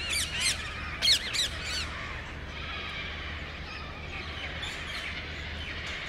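Birds calling: a quick run of loud, sharp calls in the first two seconds, then a fainter chorus of chirps and chatter, over a steady low hum.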